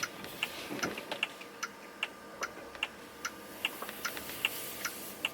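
Car turn-signal indicator ticking steadily, about two and a half ticks a second.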